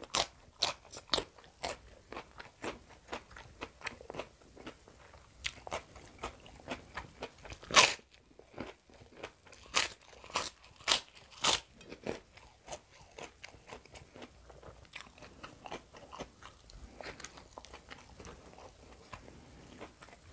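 Close-miked crunching and chewing of crisp food. There are sharp, loud bites about 8 seconds in and again between about 10 and 12 seconds in, then softer, steady chewing.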